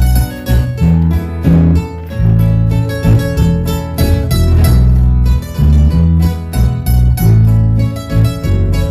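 Guitar trio playing the instrumental opening of a song: plucked guitar notes over rhythmic strumming and deep bass notes, with no singing yet.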